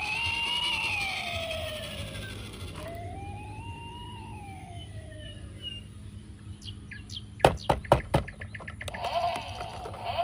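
Wailing siren in two slow rise-and-fall sweeps, like a toy fire engine's siren. About seven seconds in comes a quick run of sharp clicks and knocks, the loudest sounds. Near the end a quicker, wavering repeated tone follows.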